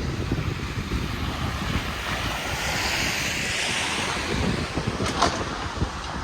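Wind buffeting the microphone as a steady low rumble, with the hiss of a passing vehicle's tyres on a snowy street swelling in the middle and fading away.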